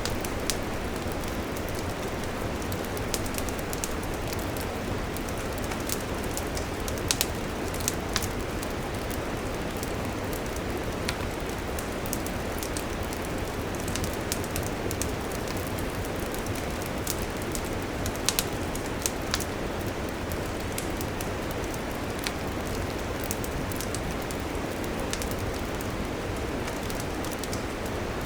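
Wood campfire burning: a steady hiss with scattered sharp crackles and a few louder pops.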